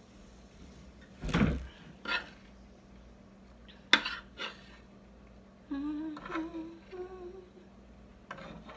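Several knocks and clinks of kitchen dishes and utensils being handled, then a woman humming a few wavering, slightly rising notes for about a second and a half.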